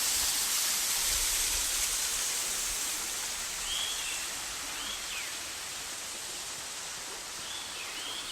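Waterfall pouring with a steady rushing hiss. A few short bird chirps sound over it in the second half.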